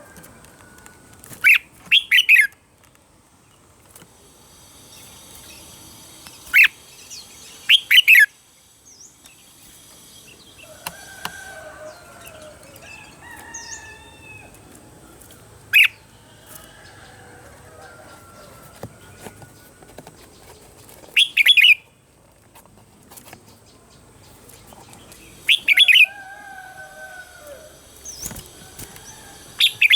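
Red-whiskered bulbul singing: loud, short, clear phrases come every few seconds, with softer warbling notes between them.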